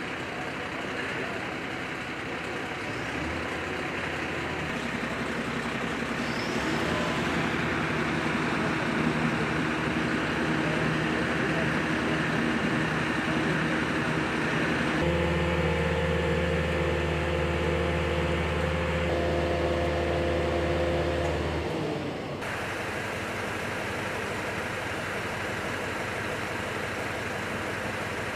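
Heavy truck engine running steadily, its note stepping up about halfway through, holding for several seconds, then dropping back about three-quarters through.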